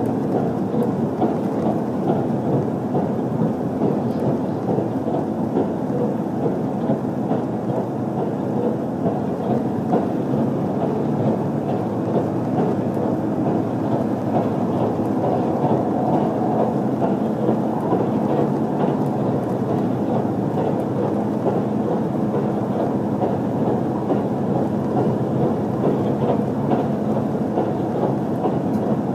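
HC85 series hybrid limited express train running at speed, heard from inside the passenger cabin: a steady rumble of wheels on rail and the running gear.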